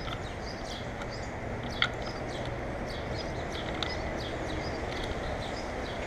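Birds chirping, many short high calls scattered throughout, over a steady low background rumble, with a sharp tap about two seconds in.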